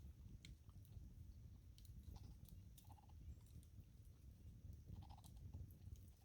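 Near silence: a faint low rumble with a few scattered faint ticks.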